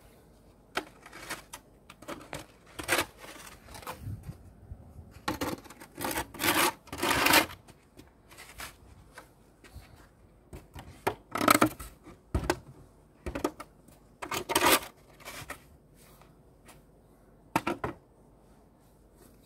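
Irregular crunching and scraping of steps through deep, packed snow, in uneven bursts, loudest in a few clusters about six, eleven, fourteen and seventeen seconds in.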